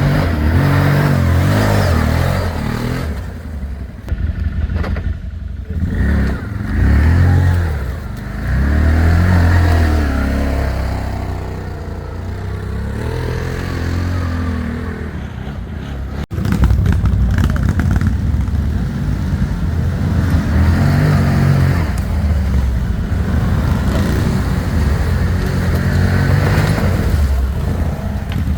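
ATV engine running while being ridden, its pitch rising and falling as the throttle opens and closes.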